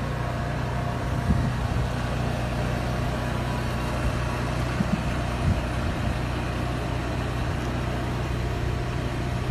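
Steady low hum of an idling engine, with a few faint knocks.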